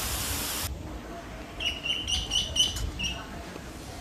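Ducklings peeping: a quick run of short, high peeps about two to three seconds in, after a brief burst of rushing noise at the start.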